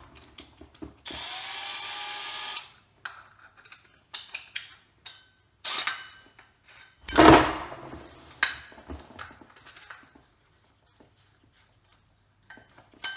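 Milwaukee M12 cordless hammer drill run briefly for about a second and a half, its motor rising in pitch as it spins up, then released. After it come scattered clicks and knocks of tool handling, the loudest a single thump about seven seconds in.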